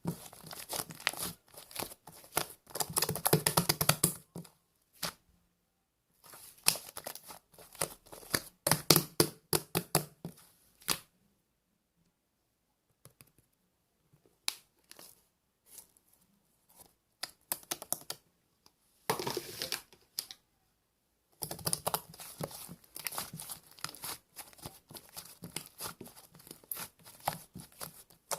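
Paper or plastic being handled at close range: bursts of crinkling and tearing with short clicks, broken by pauses of a few seconds.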